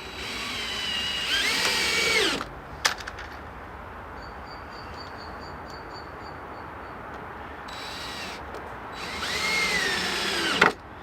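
Power drill running in two bursts, its motor pitch rising and sagging under load, as it drives screws into reclaimed decking boards. A sharp click comes between the bursts.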